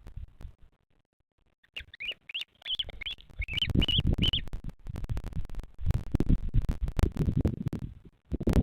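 A bird giving a quick series of high, wavering chirps for about two and a half seconds. It is joined and then followed by loud low rumbling and scattered knocks close to the nest microphone.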